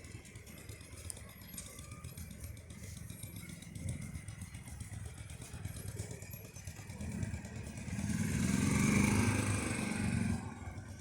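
A motor vehicle's engine running with a rattle, growing much louder about seven seconds in and dropping off sharply near the end.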